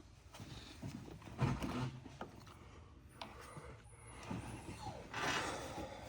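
Hand tools working on bolts in a pickup's engine bay: scattered knocks and clinks of metal, with a louder thump about a second and a half in and a short rustling noise near the end.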